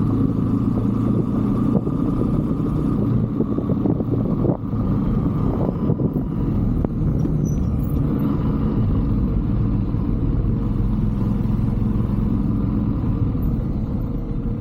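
125cc Brixton motorbike's single-cylinder engine running steadily while riding, with a low rumble throughout.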